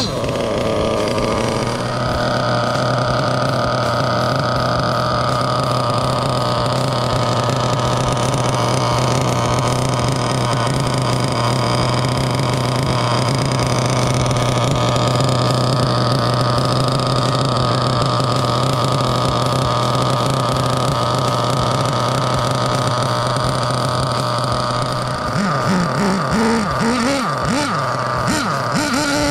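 Force R32 nitro engine of a 1/8 RC monster truck running at a steady, even pitch during its break-in. About 25 seconds in, the pitch starts swinging up and down as the throttle is worked.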